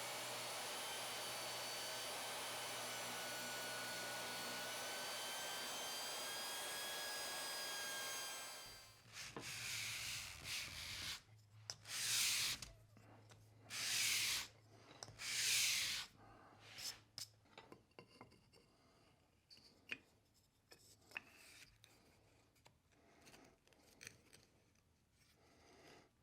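A machine runs steadily and stops about eight seconds in. It is followed by four or five long rasping strokes of a hand tool on wood, then light clicks and knocks of wood and tools being handled.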